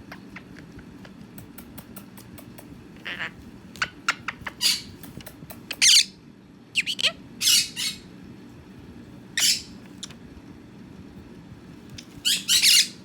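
Quaker parrot (monk parakeet) giving short, harsh squawks, about eight scattered calls with the loudest a double call near the end, with small clicks in between.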